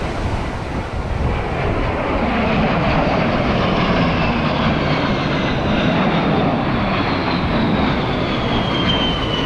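Military aircraft flying low past, its engine noise swelling about two seconds in, with a high whine that slowly falls in pitch as it goes by.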